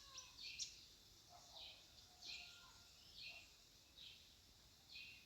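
Faint bird calls: short high chirps repeating about once a second, with a few softer, lower calls among them, over near silence.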